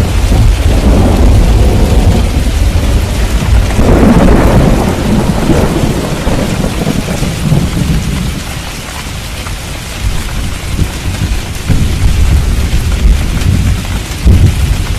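Thunderstorm: steady rain with a heavy, rolling rumble of thunder. The thunder peaks about four seconds in, eases off about halfway through, then builds again near the end.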